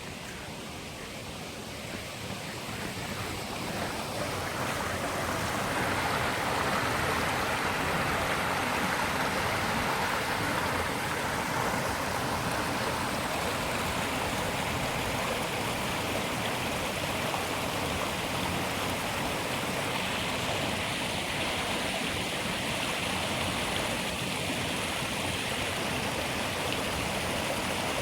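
Rushing water of a mountain stream: a steady rush that grows louder over the first several seconds, then holds even.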